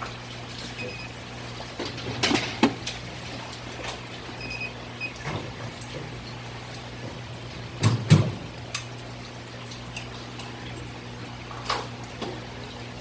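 Water running and trickling, with a few sharp knocks and clatters, the loudest about two seconds in and about eight seconds in, over a steady low hum.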